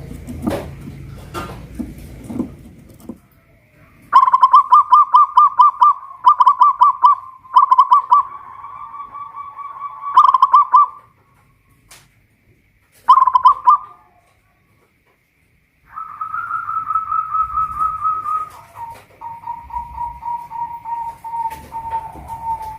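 Zebra dove (perkutut) singing: a few seconds of faint knocks and low rumble, then rapid staccato cooing phrases. After a short pause comes a longer trilled coo that steps down slightly in pitch.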